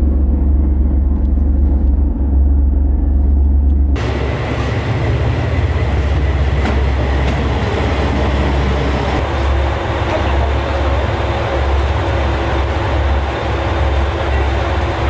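A steady low engine rumble from a boat at a pier. About four seconds in it switches abruptly to the A-Train, a KiHa 185 diesel railcar, running alongside a station platform with wheel and engine noise.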